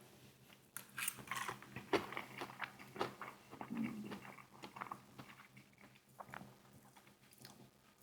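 A person eating close to the microphone: a run of small chewing and biting clicks and smacks, busiest in the first few seconds and thinning out later.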